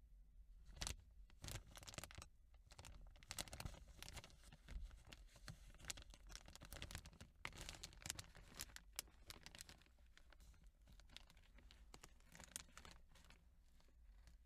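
Faint plastic bag crinkling and rustling as it is handled: a dense, irregular run of crackles that starts about a second in and dies away near the end.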